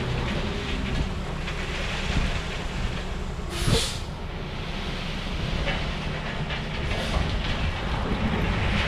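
A heavy machine or vehicle running steadily with a low rumble, and a short, sharp hiss about three and a half seconds in.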